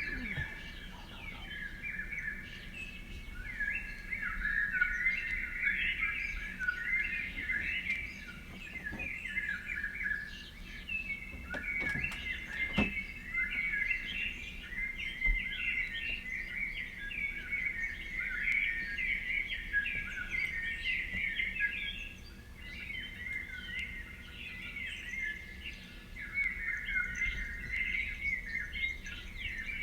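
Many songbirds chirping and singing at once in a dense, continuous chorus of short overlapping calls, easing off briefly about two-thirds of the way through. A few faint clicks come near the middle.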